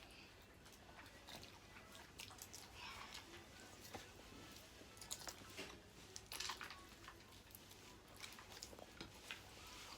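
Faint eating sounds from a seafood meal: soft chewing with scattered small clicks and cracks.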